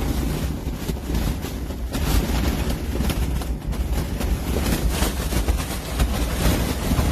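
Wind buffeting the microphone outdoors: a gusty low rumble with rustling that rises and falls.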